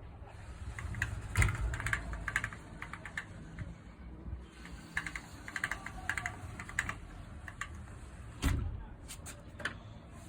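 Floor-length sliding glass window rolling along its track, its door rollers rumbling and clattering with rapid rattling clicks over two passes, then a heavy thump about eight and a half seconds in. The rattle is an abnormal noise from the door rollers.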